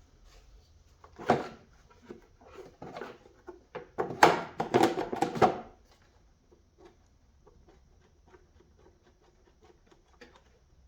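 Hand tools and metal parts clanking and clattering during repair work. There is one sharp clank about a second in, a burst of clattering knocks around four to five seconds, then faint scattered ticks.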